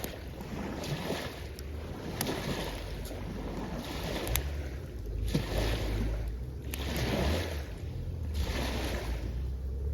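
Small waves washing in and out at the shoreline, a swell of surf every couple of seconds, over a steady low wind rumble on the microphone. A few sharp crackles from the driftwood campfire.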